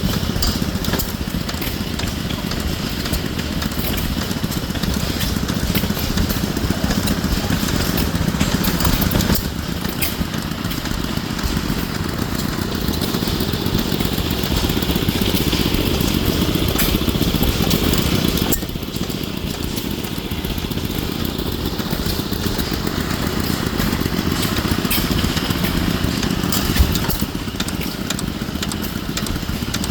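1914 Waterloo 2.5 hp single-cylinder hit-and-miss stationary engine running steadily, with a dense patter of small clicks and knocks from the running gear.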